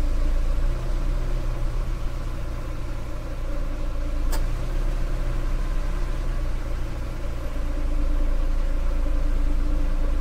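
Car engine running steadily with a low, even hum, and a single short click about four seconds in.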